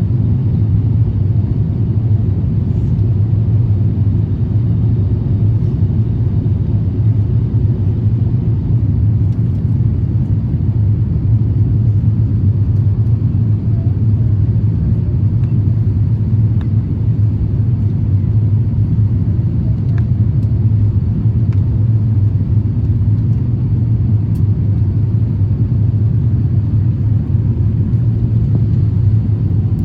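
Airbus A350-1000 cabin noise: a steady low rumble of engines and airflow heard from inside the aircraft.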